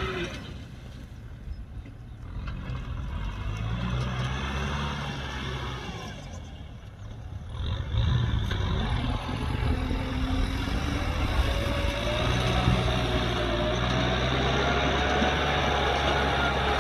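Kubota M6040SU tractor's diesel engine running. Its sound dips twice in the first half, then runs louder and steady for the rest.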